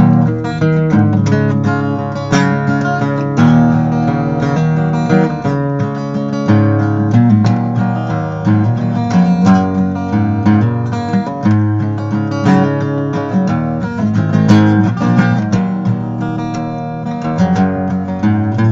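Instrumental break of a country song: acoustic guitar strummed and picked.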